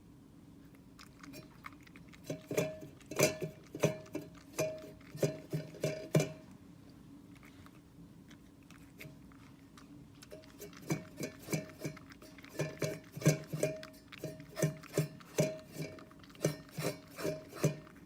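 A cat chewing a crunchy dried mackerel treat, about three crunching bites a second, in two bouts with a pause between.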